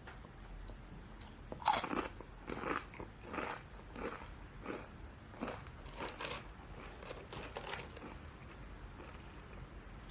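A person chewing crunchy food close to the microphone: a run of crisp crunching chews, about one or two a second, that stops about two seconds before the end.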